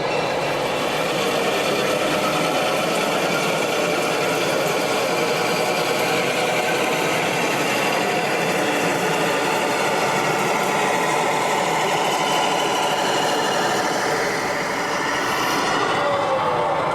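Model train running on an exhibition layout, with a sound-fitted locomotive playing an idling diesel engine sound, over a steady hall hubbub. A brief gliding tone near the end.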